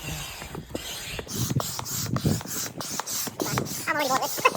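Double-action hand pump being worked in quick, regular strokes, each stroke a rasping rush of air.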